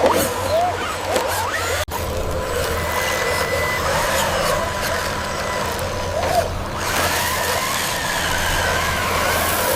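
Small electric motors of a homemade RC toy truck whirring, their whine gliding up and down in pitch as they speed up and slow down, with a brief break about two seconds in.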